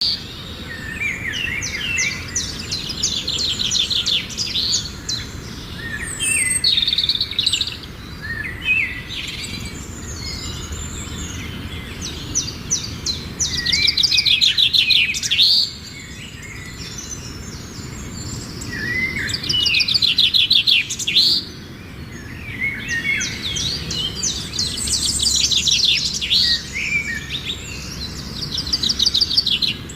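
Songbirds singing outdoors: phrases a few seconds long made of rapid repeated notes and trills, coming again and again, over a steady low background rumble.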